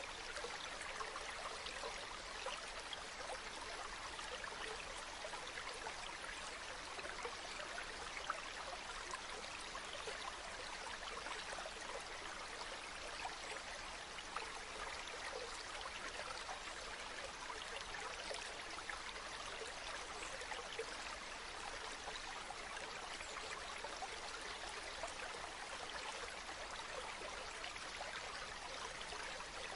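Shallow stream murmuring steadily over stones, with a few brief sharp clicks here and there.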